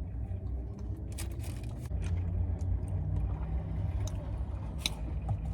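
Eating sounds: a few short crunches and clicks of biting and chewing food over a steady low rumble.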